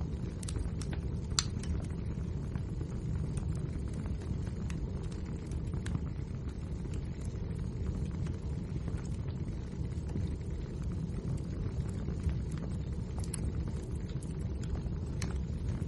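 Wood fire burning: a steady low rumble with scattered small crackles and pops, one sharper crack about a second and a half in.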